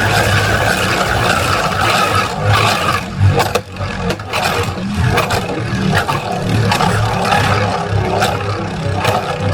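Two Beyblade spinning tops, the 3D-printed Mystic Ultraus and a Loginus, whirring and scraping around a plastic stadium with a whine that slowly falls in pitch as they lose speed, broken by sharp clacks where the tops strike each other.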